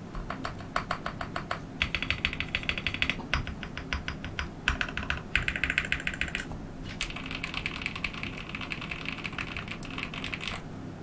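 Typing on a QK65 mechanical keyboard with lubed and filmed Durock POM switches: rapid keystrokes in fast flurries, with a short pause about two thirds of the way through and stopping near the end.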